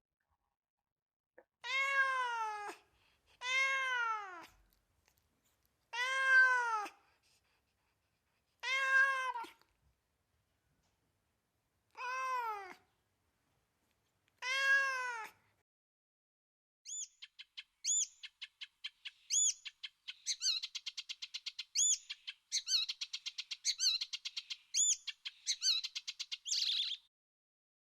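A cat meowing six times, a few seconds apart, each meow a drawn-out call that rises and falls in pitch. About halfway through, the meows give way to ten seconds of rapid, very high-pitched chirping.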